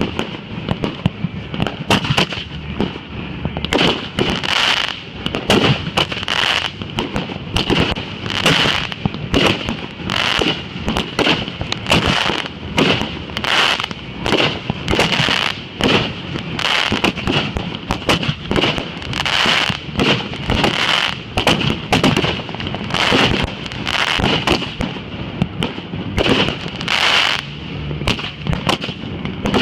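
Fireworks going off in a rapid, continuous string of bangs, several a second, lit just before.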